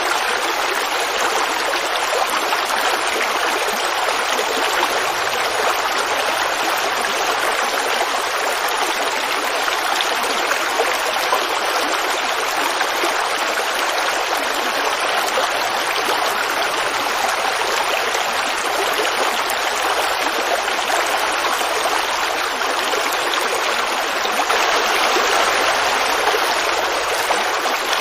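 Forest creek babbling over stones: a steady rush of running water that swells a little near the end.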